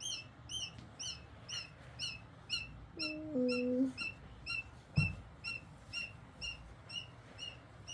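A small bird chirping over and over in an even rhythm, about two short high chirps a second, each dipping slightly in pitch. About three seconds in there is a brief low two-note sound, and about five seconds in a single thump.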